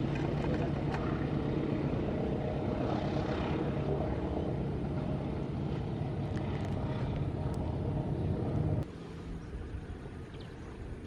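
Diesel train engine running with a steady low drone, which drops off abruptly about nine seconds in.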